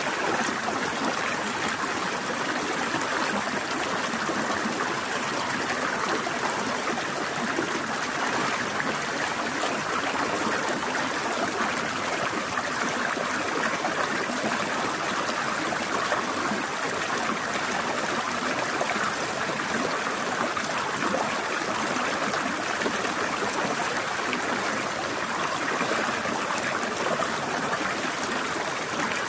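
Steady flowing and trickling water of a forest stream, an even rush without breaks.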